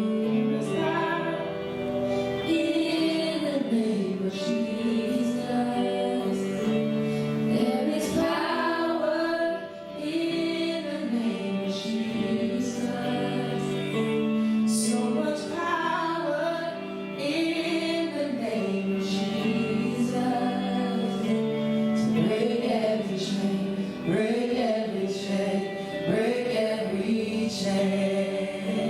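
Gospel worship music: singing over steady held chords.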